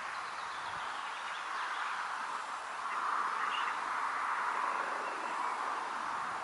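Frog chorus at a pond: a steady, dense mass of calls in a mid-pitched band, with a few faint higher chirps over it.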